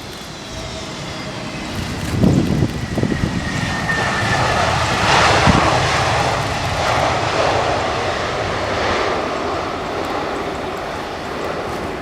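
Airbus A320neo jet airliner passing: its engine whine falls in pitch while the roar swells to a peak about five seconds in and then slowly fades. Wind buffets the microphone about two seconds in.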